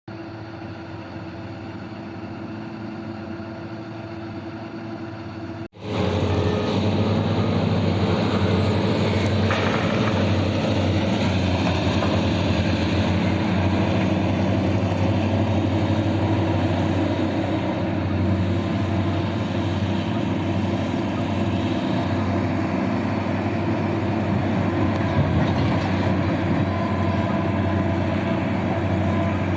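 Heavy diesel engine of a large mining dump truck running steadily. It is quieter for about the first six seconds, then after a brief break it comes in louder and closer.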